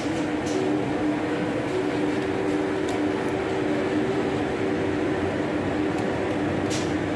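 Steady electric hum and hiss from two TGV trainsets, with a couple of held tones, as one creeps slowly up to the other for coupling. A few faint clicks sound along the way.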